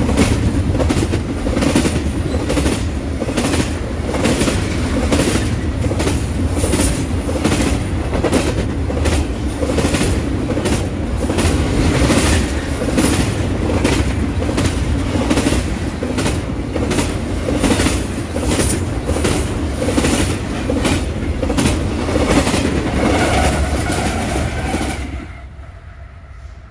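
Union Pacific freight train cars rolling past, the wheels clacking over rail joints about twice a second over a steady rumble. The sound drops off sharply about a second before the end.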